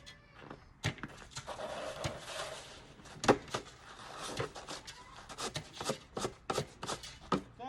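Snow shovel scraping across the driveway and knocking against it, with a long scrape early on and a string of sharp knocks, the loudest a little over three seconds in, while heavy, wet snow is cleared.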